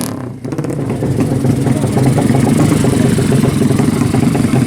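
A motorcycle engine note fades away right at the start, then a motorcycle engine idles steadily with a rapid, slightly uneven firing beat.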